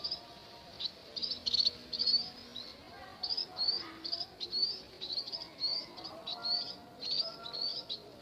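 Young munias chirping: short, high chirps repeated two or three times a second.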